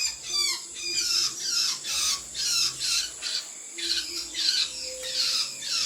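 Cucak cungkok calling in a quick run of harsh, falling notes, about two a second.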